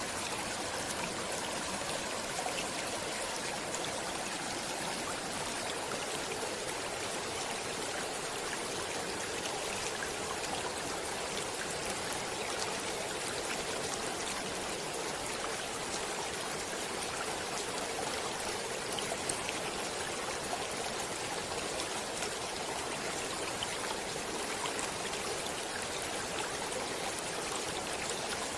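Stream water running steadily, an even, unbroken rush and splash.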